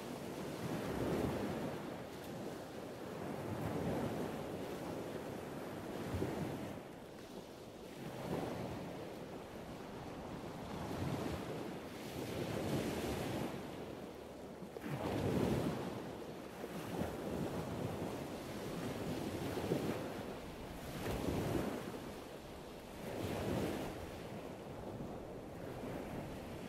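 Sea surf washing onto a rocky shore, a steady rush that swells and falls back every two to three seconds.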